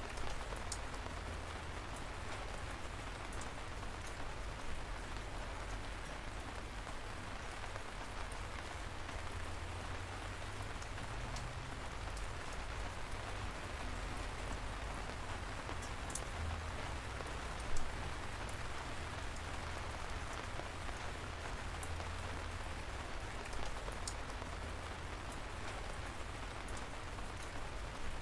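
Light rain falling steadily, a soft even patter with scattered individual drops ticking, one sharper drop tick near two-thirds of the way through.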